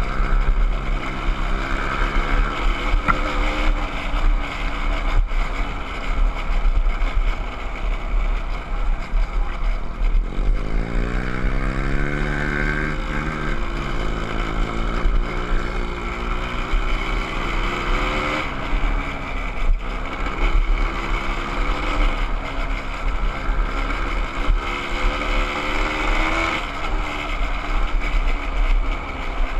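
Small off-road motorcycle engine running under way while ridden, with wind buffeting the microphone. About ten seconds in the engine revs up with a rising pitch for a few seconds, then drops back.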